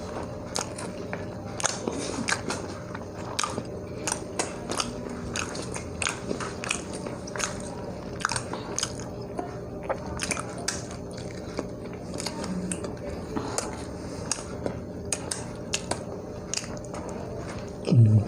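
Close-up eating sounds during a mukbang: chewing and biting, with many short, irregular wet clicks and smacks of the mouth.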